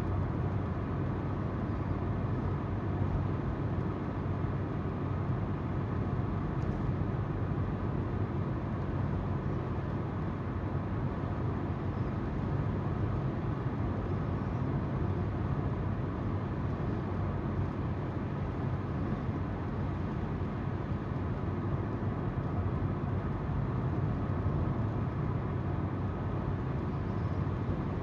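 Car driving at a steady pace: a constant low hum of the engine under the rolling noise of the tyres on the road.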